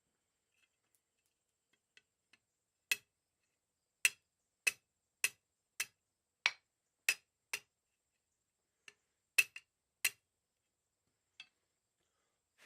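Blacksmith's hammer striking a mild steel round bar on the anvil: a run of about a dozen sharp blows, roughly two a second, with a short pause partway through.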